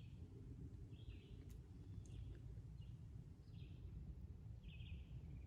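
Faint outdoor ambience: songbirds giving short chirps every second or so over a low steady rumble.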